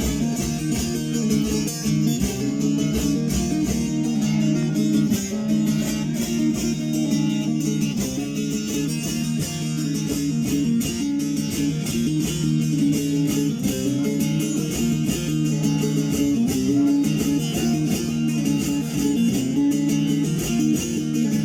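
Bağlama (saz) playing a continuous instrumental interlude: quick plucked, strummed notes over steady low drone strings, with no singing.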